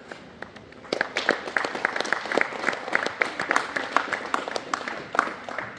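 Audience applauding, a burst of hand claps that starts about a second in and dies away near the end.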